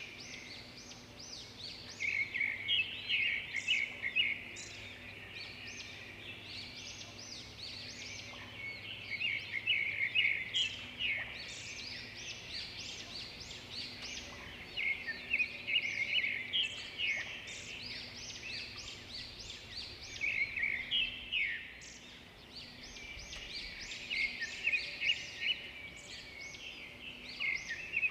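Songbirds singing and chirping together, many quick high notes overlapping in bouts a few seconds long with short lulls between.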